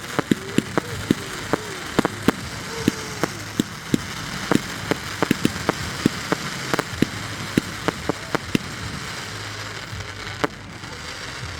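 Fireworks popping and crackling: sharp, irregular pops, several a second, over a steady hiss, with a few short whistling glides early on.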